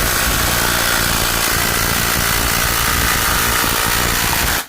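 Two cordless impact drivers, a Ryobi PBLID02 brushless and a Ryobi P238, hammering together in their top mode as they drive 3-inch 3/8 lag screws into wood. The rapid impacting is loud and cuts off abruptly near the end as the screws seat.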